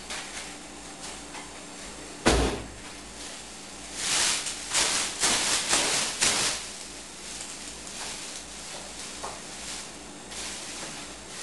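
Kitchen handling noises: a single loud knock about two seconds in, like a cupboard door or drawer shutting, then a couple of seconds of rustling and clattering.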